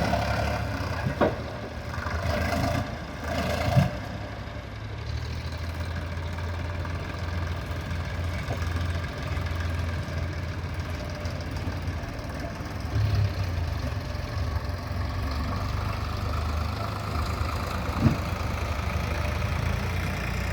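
Sonalika tractor's diesel engine running steadily with a low rumble, with a few sharp knocks about a second in, around four seconds in and near the end.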